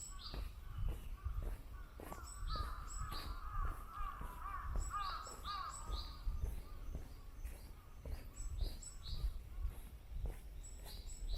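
Wild birds calling: short, high, falling notes repeated in quick pairs throughout, and a run of lower, rougher calls from about two to five seconds in, over the low thud of footsteps.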